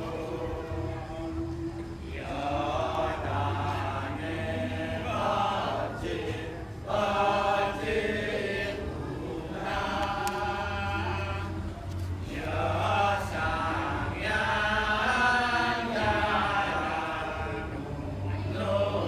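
Voices chanting in long held phrases, several seconds each with short breaks, over a steady low drone.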